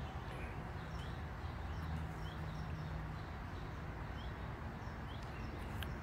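Outdoor background ambience with a bird giving short chirps over and over, about once a second, over a steady low noise bed.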